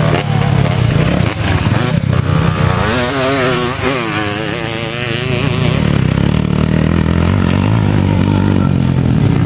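Motocross motorcycle engines running, with the revs rising and falling quickly around the middle.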